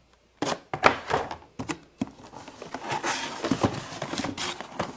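Packaged die-cast toy cars being handled: a run of sharp clicks and knocks, with rustling of the packaging through the middle.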